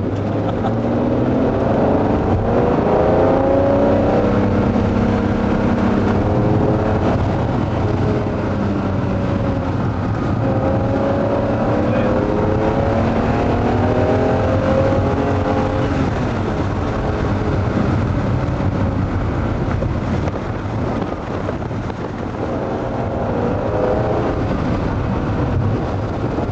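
Ferrari Testarossa's flat-twelve engine heard from inside the cabin while driving, its pitch climbing as it accelerates and falling back several times.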